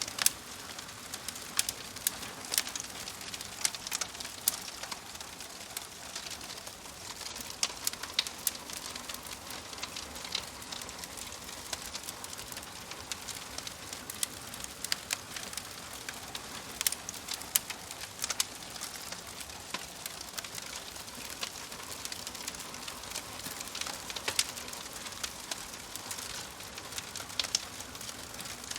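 Fireplace fire crackling: a steady soft hiss with frequent, irregular sharp pops and snaps.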